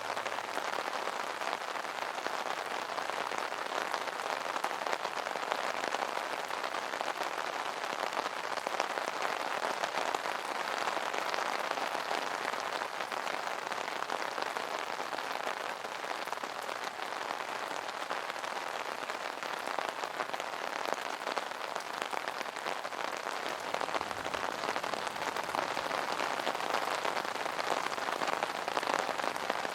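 Steady rain pattering on an umbrella canopy, a dense even hiss of many small drop hits.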